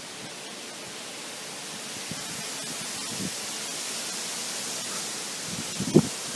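A gust of wind rushing through trees, the hiss of stirred leaves slowly swelling. Near the end the wind buffets the microphone with a low thump or two.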